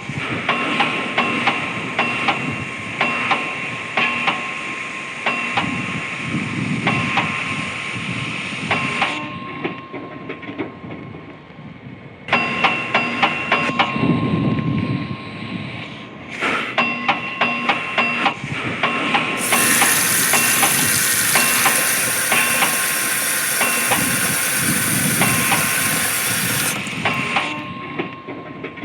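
Hammer blows on steel at the forge, struck in quick repeated runs, each ringing with a metallic tone. For several seconds in the later part, a steady high hiss sounds under the strikes.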